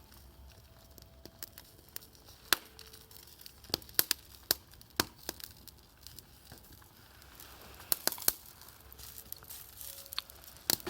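Wood campfire crackling, with sharp irregular pops and snaps.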